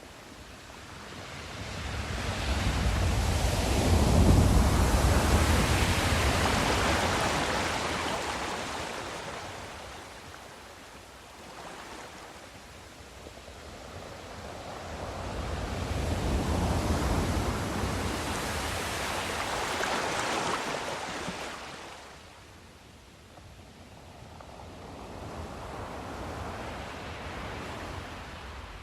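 Sea waves washing in slow swells, three surges, the first the loudest, each rising and falling away over several seconds.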